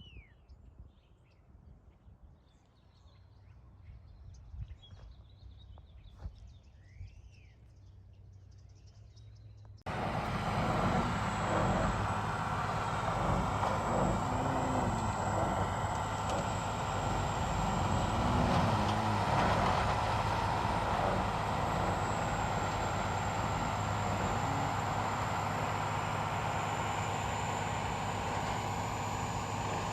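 Quiet room with a few short bird chirps; then, about a third of the way in, a machine tool suddenly starts running loud and steady, with a low hum and a thin high whine.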